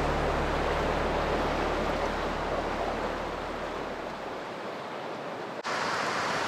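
Fales River rapids rushing steadily, with low background music fading out over the first few seconds. About five and a half seconds in there is an abrupt switch to a brighter, louder rush of water.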